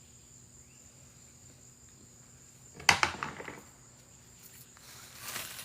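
Insects chirring steadily at a high pitch in the background. A sudden sharp knock comes about three seconds in, and a short rustle near the end.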